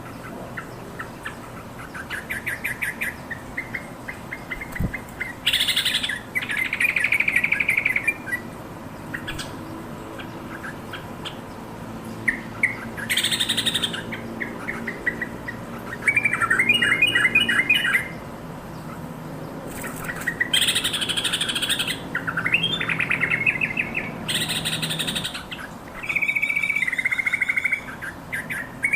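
Yellow-vented bulbul calling: repeated bubbly chirps and quick trilled phrases, broken about four times by short, loud, harsh noisy bursts.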